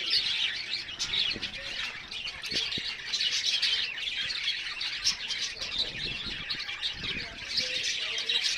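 Many small birds calling at once: a dense, continuous chatter of short chirps and tweets overlapping without a break.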